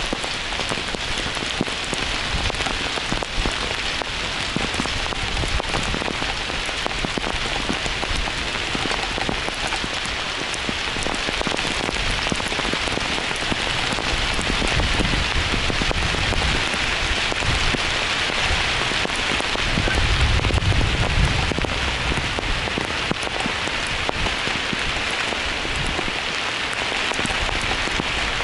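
Heavy downpour of rain pouring steadily onto surfaces. A low rumble swells briefly about two-thirds of the way through.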